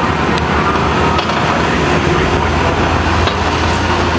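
Mini excavator engine running steadily with a constant low hum, with a few faint clicks over it.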